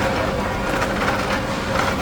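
Factory machinery running steadily: a constant hum with scattered light clicks.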